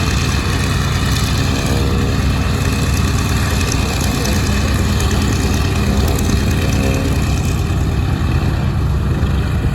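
Piston aircraft engine running steadily: a continuous, even low drone with no change in pitch.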